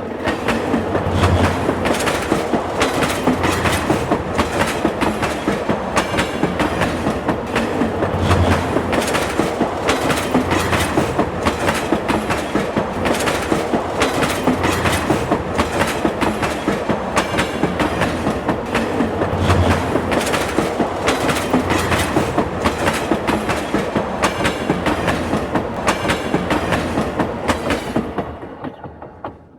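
A train running on the rails, its wheels clacking over the rail joints in a fast, steady rhythm over a continuous rumble. The sound fades out near the end.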